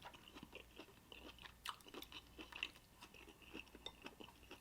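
Faint chewing and eating sounds: soft mouth noises with small clicks and crunches scattered through, from eating crab and lobster.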